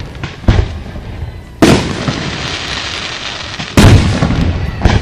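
Aerial fireworks shells bursting: a sharp bang about half a second in, another at about a second and a half followed by a long crackling hiss, then a louder bang with a rolling rumble near the end and one more just after.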